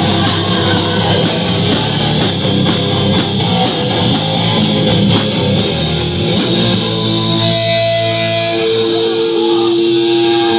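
Live rock band playing loud, with distorted guitars over drums. About two-thirds of the way through the drums drop out and held guitar notes ring on.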